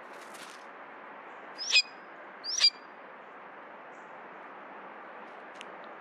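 A wild bird giving two short, loud calls about a second apart, each sweeping upward in pitch, over a steady faint outdoor hiss.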